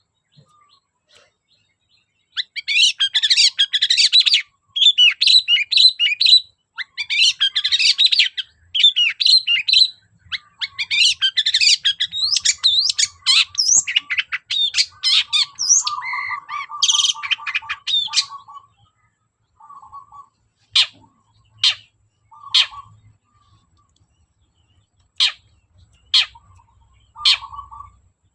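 Long-tailed shrike (cendet) singing, starting about two seconds in with a fast, varied, high-pitched chattering song in bursts. From about 16 seconds it turns to sparser short, harsh buzzing calls mixed with sharp, high single notes.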